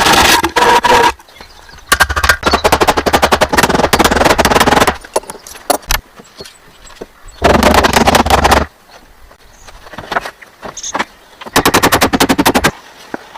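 A power tool run in four short bursts, each a fast rattle of rapid impacts over a low motor hum, with pauses between.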